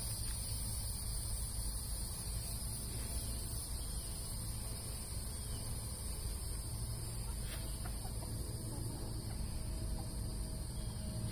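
Steady high-pitched drone of an insect chorus, unbroken throughout, over a constant low rumble.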